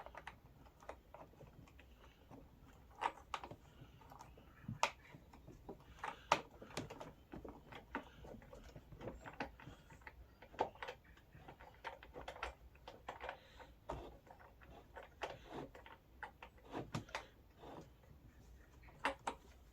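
Plastic wrenches clicking and knocking against the wheel nut and axle end as a rear wheel nut is tightened, one wrench on each side. Faint, irregular clicks and taps, a few louder knocks among them.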